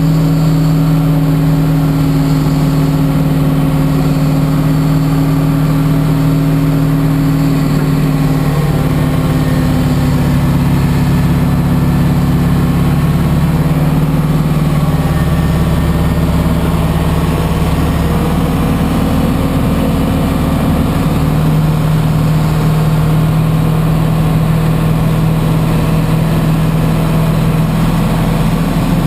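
Pushback tug's engine running steadily under load while pushing a Boeing 777, a loud low hum that shifts in pitch a little a few times.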